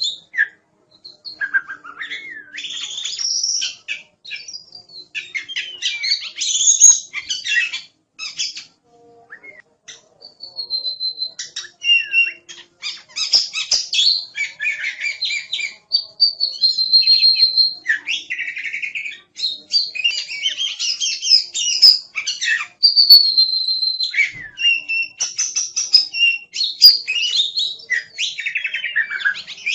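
Oriental magpie-robin in full song: a loud, varied run of whistles, trills, slurred glides and scratchy phrases, with several held high whistles and short pauses, and a near-quiet gap of about two seconds around the ninth second.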